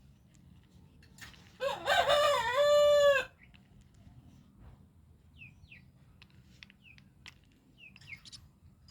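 A rooster crows once, a loud call of about a second and a half starting about a second and a half in: it rises, dips, then holds a long steady note before breaking off. Faint short high chirps follow in the second half.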